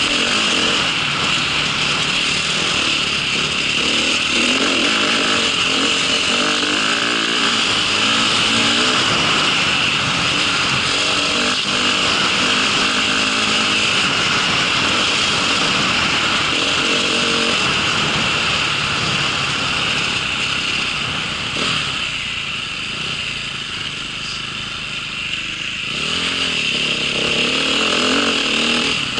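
Engine of a small motor vehicle running under way, its pitch shifting as it revs. It eases off and quietens for a few seconds near the end, then picks up again.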